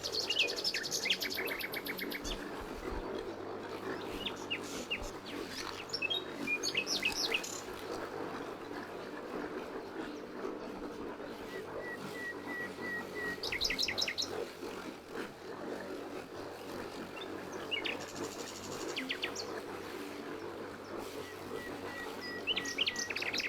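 Wild birds chirping and trilling in short scattered calls, including a few quick runs of evenly repeated notes, over a steady low background noise.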